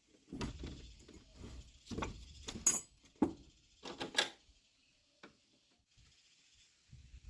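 Irregular knocking and clattering: a run of sharp strokes over the first four seconds, the loudest around the middle, then one last click about five seconds in.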